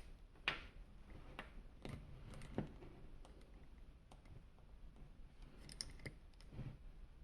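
Irregular small clicks, taps and brief rustles of plastic toy parts or packaging being handled, with a sharper snap about half a second in.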